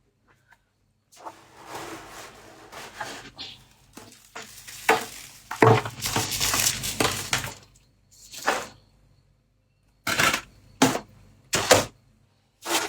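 Freezer frost being squeezed and crushed by hand, crunching like footsteps in snow. A long run of crunching bursts is followed by a few short, sharp crunches near the end.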